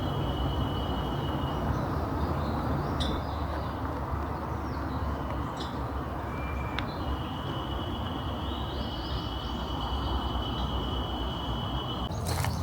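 Outdoor forest ambience: a steady low rush, with a thin, high, unbroken tone sounding twice (the second time for about five seconds) and a few short chirps. Near the end come several sharp crunches or clicks.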